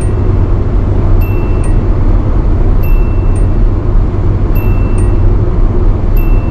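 Inside a 1985 Nissan B12 Sunny at highway speed: steady engine and road noise, with the car's speed-warning chime repeating about every 1.7 seconds. This is the kin-kon alarm that Japanese cars of that era sounded above about 105 km/h, a sign that the car is going faster than that.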